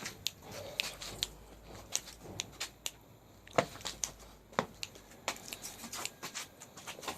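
Pitbull puppy playing: irregular sharp clicks and taps, the loudest two about a second apart near the middle.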